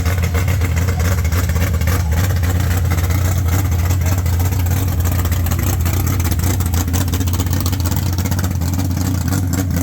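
Classic car engine running steadily with a loud, deep, even exhaust rumble and no revving.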